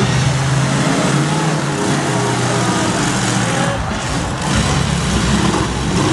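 Several demolition derby cars' engines running and revving hard under a dense wash of arena noise. The low engine note thins out near the middle and comes back strongly just past halfway.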